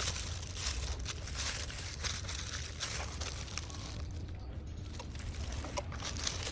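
Rustling and crinkling of packaging with light clicks and knocks as parts are handled, over a steady low hum.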